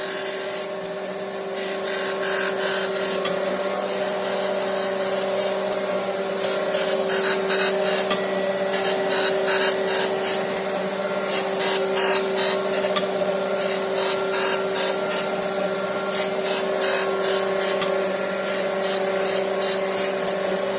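Small power tool running with a steady whine while a valve is lapped into its seat on a cylinder head, with short gritty rasping strokes about two or three a second from about six seconds in.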